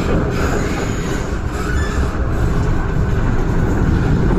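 MTR M-train electric multiple unit running on the Island Line, heard from inside the passenger car: a steady, loud noise of wheels on track.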